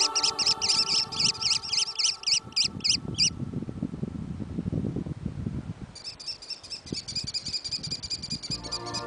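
Wild bird calling: a fast series of sharp repeated notes, about five a second, for about three seconds, then after a pause a faster, higher trill.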